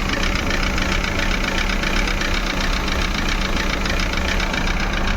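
Maruti Suzuki Eeco's four-cylinder petrol engine idling rough with a misfire, a steady run with a fast pulsing beat. The fault behind it reads as a MAP sensor showing high pressure (code P0108).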